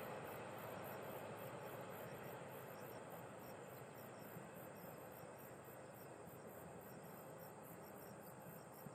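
Passenger train rolling away along the track, its rumble fading steadily as it recedes. Insects chirp in a fast, even pulse, about three or four chirps a second.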